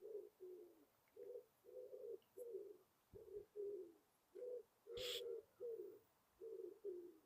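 A pigeon cooing: a steady run of short, low coos about half a second apart, some falling in pitch at the end. A single sharp click comes about five seconds in.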